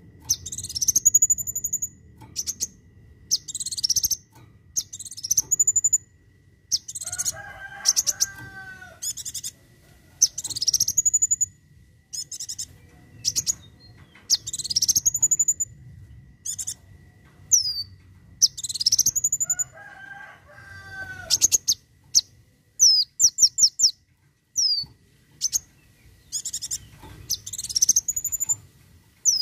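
Kolibri wulung sunbird singing: short, very high, sharp upswept notes repeated about every second or so, mixed with quick rattling trills. Twice a lower call lasting about two seconds, from another bird, sounds underneath.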